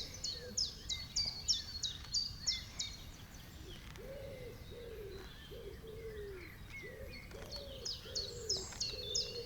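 Wild birds calling: a high, rapid run of repeated notes that stops a few seconds in and comes back near the end. From about four seconds in, a lower call repeats steadily.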